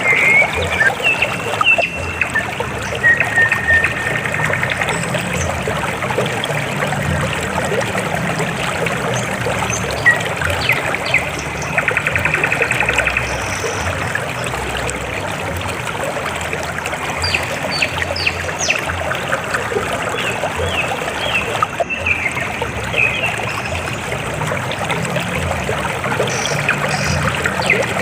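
River water flowing steadily over rocks, an even rushing and trickling. Short high chirps sound over it now and then, with a rapid pulsing trill about twelve seconds in.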